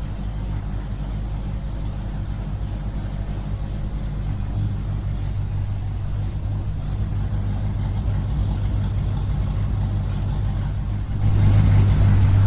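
Small engine of a mini tractor and water-pump rig running steadily with a low hum, louder near the end.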